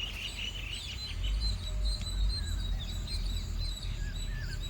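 Small birds chirping outdoors: a quick run of short high chirps at the start, then scattered chirps and a few short whistled notes. A steady low rumble runs underneath.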